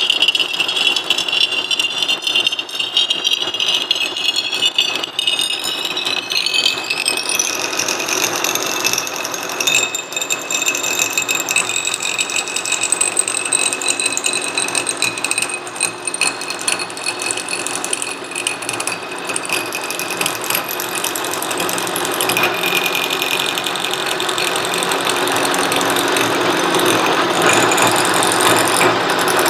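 A metal-cutting machine tool running a cut on a metal part, probably its final machining pass. It makes a gear whine that rises in pitch over the first several seconds, then holds steady with small steps in pitch, over a continuous grinding mechanical noise.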